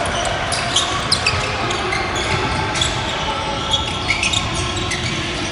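Basketball game on a gym court: a ball bouncing and many short, high sneaker squeaks over the steady noise of a large hall.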